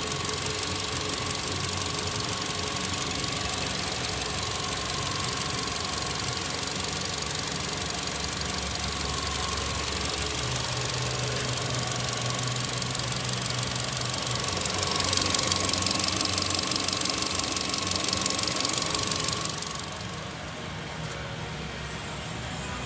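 Holden Cruze 1.8 litre four-cylinder petrol engine running steadily at idle. It gets louder for about five seconds past the middle, then settles back down near the end.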